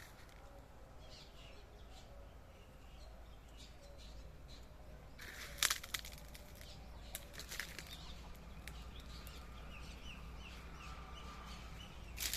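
Faint bird chirps, with a brief burst of rustling about halfway through and a few smaller rustles over the next two seconds.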